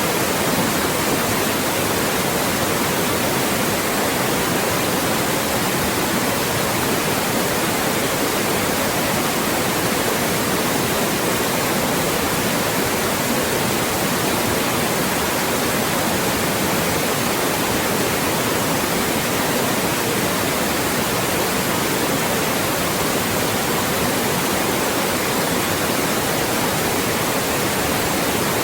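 Loud, steady electronically generated white noise, an even hiss with no change, used to mask voices.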